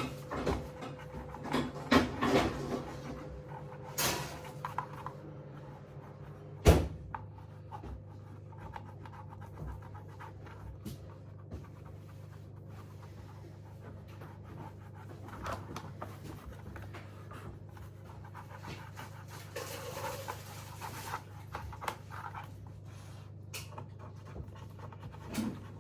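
A dog panting, over a steady low hum, with scattered knocks and rustles of paper packaging being handled and one sharp knock about seven seconds in.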